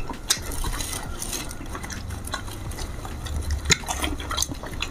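Wet mouth sounds of someone chewing fresh fruit, with scattered sharp clicks.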